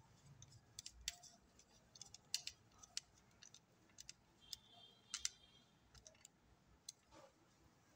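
Faint, scattered clicks and light scrapes of hand tools and copper wire being worked into the terminals of a 15 A power socket as its earth wire is connected, with a short squeaky scrape about five seconds in.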